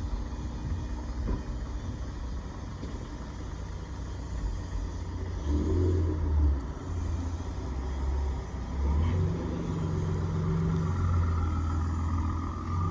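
Jet ski engine running, its low note getting louder and changing pitch as the throttle is worked, about five seconds in and again around nine seconds.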